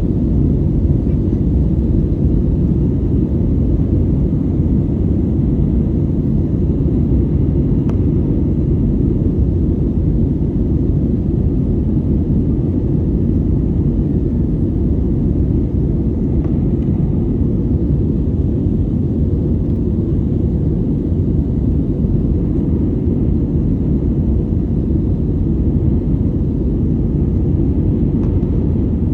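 Airplane engines and airflow in a steady, even low rumble after takeoff, unchanging throughout.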